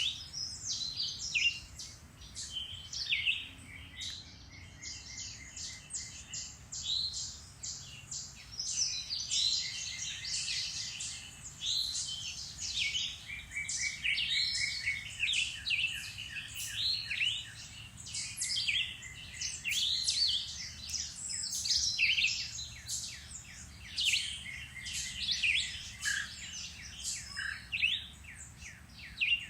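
Several songbirds singing and calling at once in a dense woodland chorus of overlapping chirps, whistles and rapid trills, over a faint low rumble.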